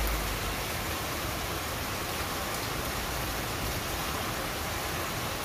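Heavy downpour falling on garden foliage and a lawn: a steady, even hiss of rain with no let-up.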